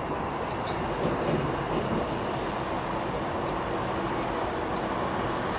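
An LNER Azuma train running along the line, a steady, even rail noise with a slight swell about a second in.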